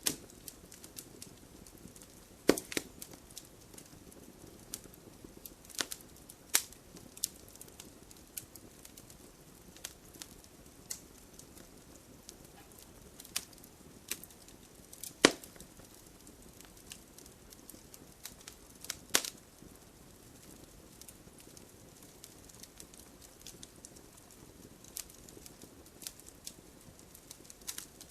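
Wood logs burning in a fireplace, crackling: irregular sharp pops over a low steady rumble of the flames, with the loudest pops about two and a half, fifteen and nineteen seconds in.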